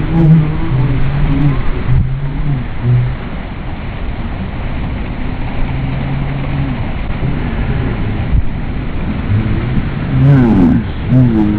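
Motorboat engine running under heavy wind and water noise while towing a banana boat, with voices shouting briefly near the end.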